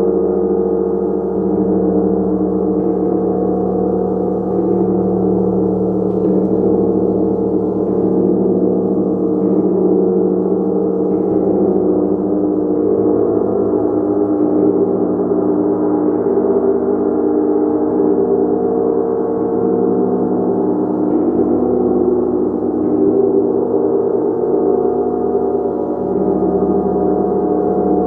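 Gong played continuously: a dense, steady wash of many overlapping sustained tones, kept going by soft strokes every second or two.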